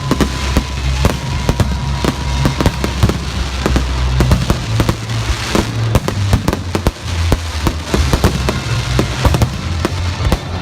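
Fireworks display: a dense, continuous run of bangs and crackles, with bass-heavy music playing underneath.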